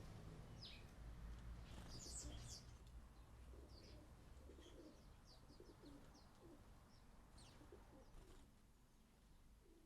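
Faint chirping of garden birds, among them house sparrows: short high chirps scattered through, with some lower soft calls beneath. The calls thin out after about eight seconds.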